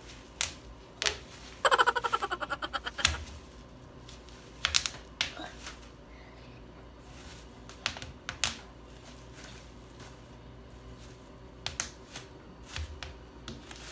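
Plastic bubble wrap being popped by hand: a quick run of pops lasting about a second, about two seconds in, then single pops every second or two.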